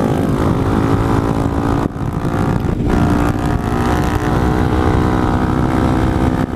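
Motorcycle engine running steadily while riding, with wind rumble over the helmet microphone; the engine note dips briefly about two seconds in.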